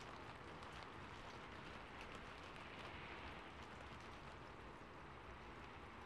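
Faint, steady rain falling on a rooftop, with light scattered drop ticks.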